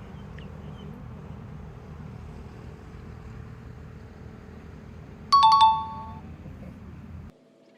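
A two-note ding-dong chime, the second note lower, rings out loudly over a steady low outdoor rumble. It is an added doorbell-style sound effect rather than anything at the water, and the background cuts off abruptly near the end at an edit.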